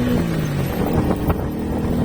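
Motorcycle engine on the move, its note dropping at the start as the throttle eases off. Then mostly wind and road noise with a few knocks, the engine note settling steady again near the end.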